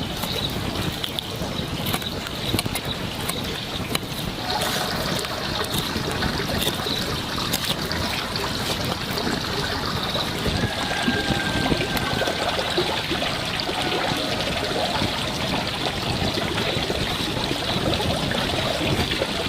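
Water running and trickling steadily, with small splashes and clicks.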